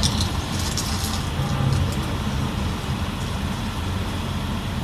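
Studio tour tram running, a steady low rumble from its engine and wheels, with a few light clicks in the first second.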